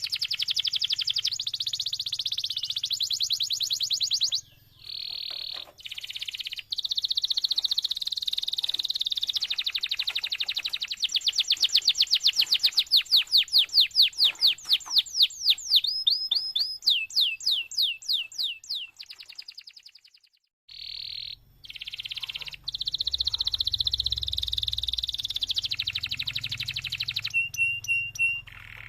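Domestic canary singing a long, continuous song of fast, high trills and rolls. In the middle comes a run of louder sweeping notes, and there are two short breaks.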